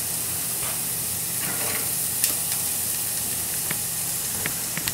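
Chopped shallots frying in the steak's leftover pan fat in a sauté pan, a steady sizzle with a few sharp clicks, the start of browning them for a red wine pan sauce.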